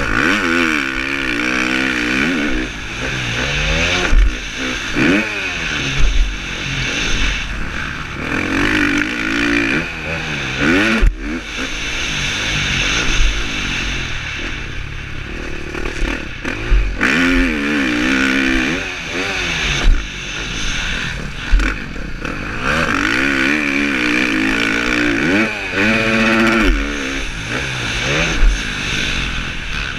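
KTM 350 SX-F's single-cylinder four-stroke motocross engine revving up and dropping back again and again as the throttle is worked around the track, over a steady hiss. Short low thumps come every few seconds.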